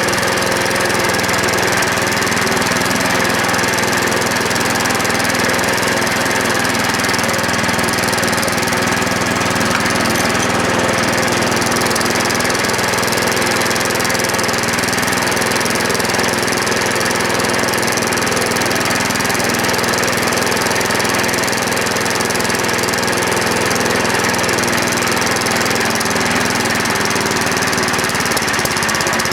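Single-cylinder 7 hp Tecumseh small engine running steadily at an unchanging speed, on a carburettor that has not yet been adjusted.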